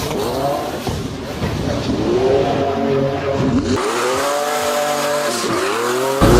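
Twin-turbo 6-litre Mercedes M120 V12 drift car with a straight-cut manual gearbox, driven hard with tyres squealing. Engine pitch sweeps up and down again and again as it revs, falls and revs again. About four seconds in, the deep part of the sound drops away abruptly, then returns near the end.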